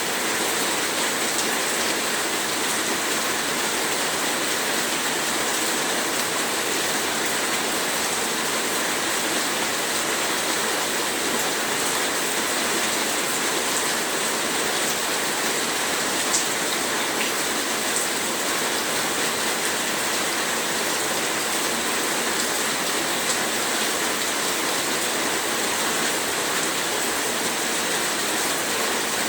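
Heavy rain falling steadily: a dense, even hiss of many drops, with an occasional single sharper drop tick.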